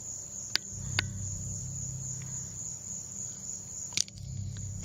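Crickets chirring in a continuous high-pitched drone, over a low rumble, with three short sharp clicks.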